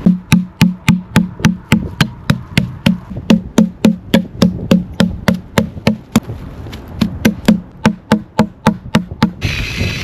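Knife chopping on a wooden cutting board in a steady rhythm, about three to four strokes a second, stopping shortly before the end.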